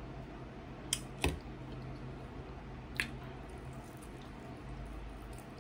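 Close mouth sounds of eating a sauce-covered fried chicken wing: wet chewing, with three sharp smacks, two about a second in and one near three seconds.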